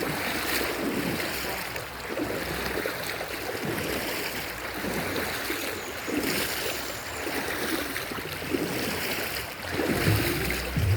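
Stream water flowing over rocks, a steady rushing wash. A low steady hum comes in near the end.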